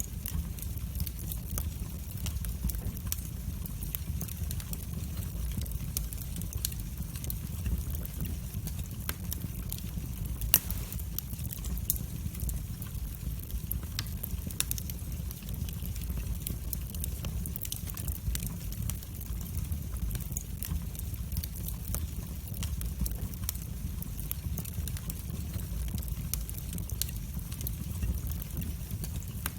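Wood fire burning in a fireplace: a steady low rumble of the flames with irregular sharp crackles and pops, one louder pop about ten seconds in.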